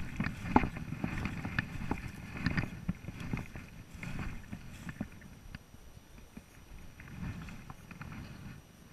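Irregular rustling and crackling of movement through undergrowth, busiest in the first few seconds and then fading.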